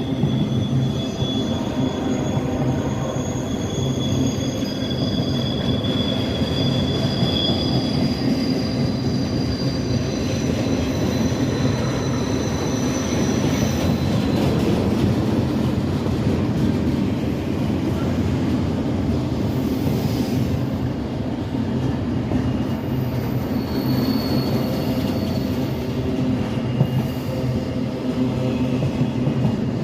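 Train rolling past with a steady rumble of wheels on rail. High, thin wheel squeals come and go over it, mostly in the first half and again briefly about 24 seconds in.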